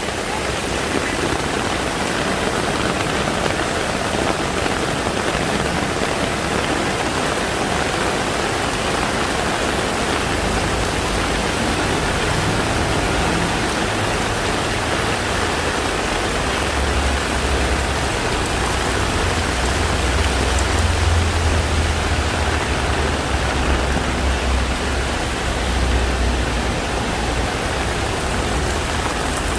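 Heavy rain pouring steadily. A low rumble joins about a third of the way through and is strongest past the middle.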